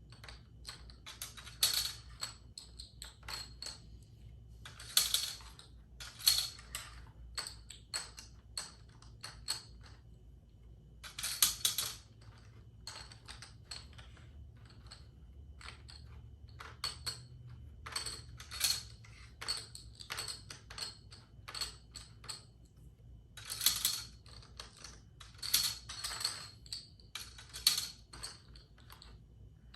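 Plastic Connect 4 discs clicking and clattering as they are dropped into the upright grid, in short bursts at irregular moments.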